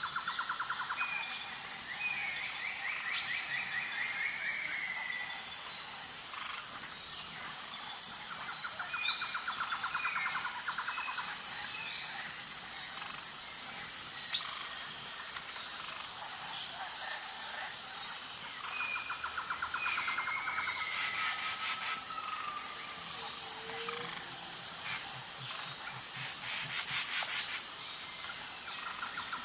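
Nature ambience: a steady high chirring of insects, with a trilling call that comes back roughly every ten seconds and scattered short, sliding whistled bird calls.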